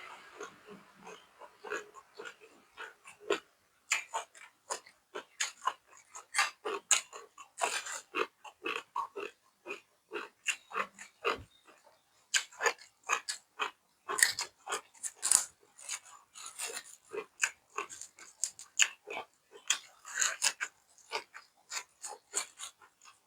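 A person eating close to the microphone, chewing and lip-smacking in many short, irregular smacks, several a second.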